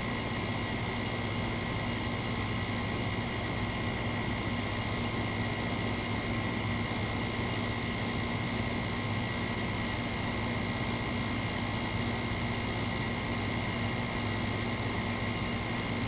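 Window air conditioner's fan motor running with a steady, even hum; its bearings run quiet, with no bearing noise.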